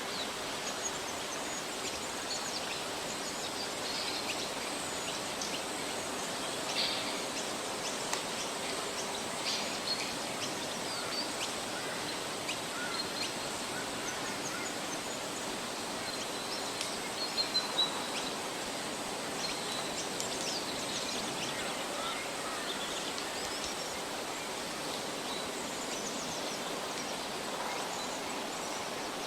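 Forest ambience: a steady hiss with scattered short bird calls, and a quick run of three taps about seventeen seconds in.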